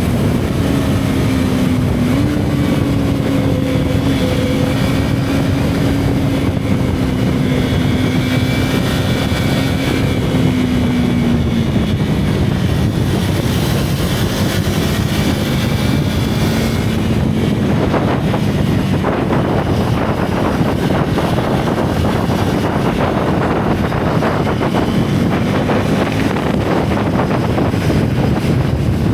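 Single-cylinder motorcycle engine pulling steadily at cruising speed. The engine note drops slightly about eleven seconds in as the throttle eases. The note then fades under a rush of wind on the microphone for the second half.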